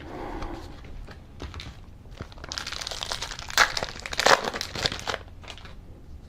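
Plastic foil wrapper of a football trading card pack crinkling as it is torn open, loudest from about two and a half to five seconds in, with two louder crackles in the middle.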